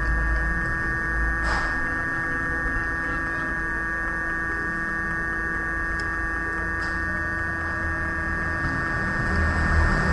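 Steady electrical hum with a high, even whine and a few faint ticks.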